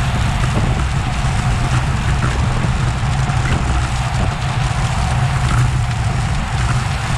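Wind rumbling over an action camera's microphone on a road bike at race speed, with a steady hiss of tyres on the road.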